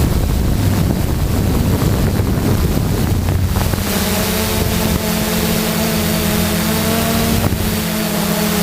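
Wind buffeting the microphone, joined about four seconds in by a steady, even-pitched motor hum that holds to the end.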